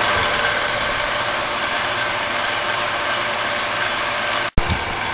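Commercial refrigeration condensing unit running: its condenser fans blowing and its compressor humming in a steady drone. The sound breaks off for an instant about four and a half seconds in, then comes back with a short knock.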